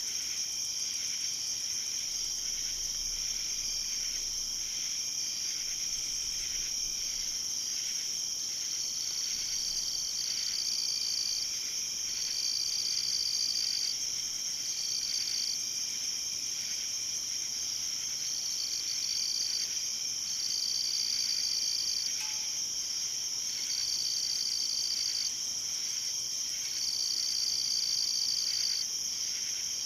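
Night insect chorus: a steady, high-pitched trill, with a second insect calling in repeated stretches of a second or two from about a third of the way in.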